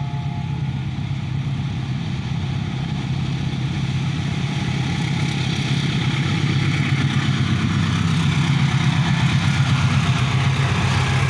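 Diesel locomotive hauling a passenger train, its engine a steady low drone, with the rumble of the train growing steadily louder as it approaches. The tail of a horn blast ends in the first moment.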